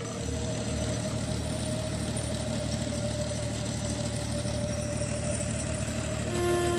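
A steady, low engine rumble, like a motor idling, with background music coming in near the end.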